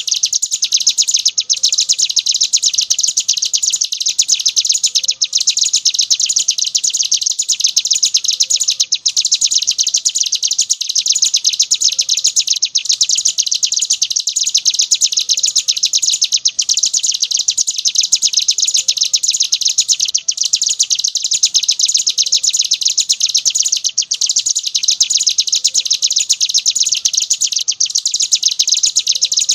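Ciblek gunung, a prinia, singing nonstop ('ngebren'): a loud, very rapid, high chattering trill that hardly pauses. It breaks off only for a moment about every four seconds.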